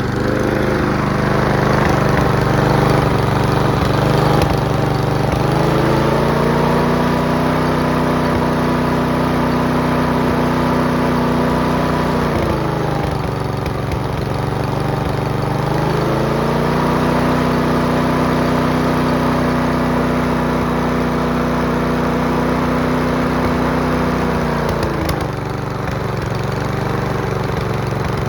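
Mountfield V35 single-cylinder petrol lawnmower engine running, revved up from a lower speed to a steady high speed and dropped back, twice, by the throttle lever. At the lower speed it runs a little unevenly, where the owner reports popping and cracking; at full revs it runs okay.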